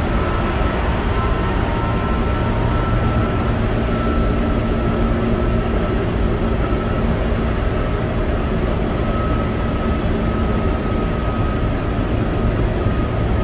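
Keihan 8000 series electric train running at a steady pace, heard from inside the passenger car: a constant rumble of wheels and running gear, with a faint high tone that comes and goes.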